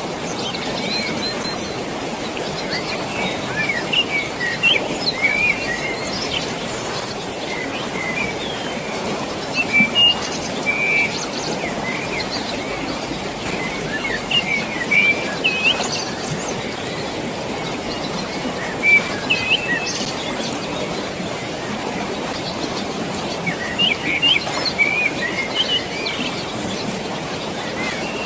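Small birds chirping in scattered clusters of short calls over a steady rush of flowing water.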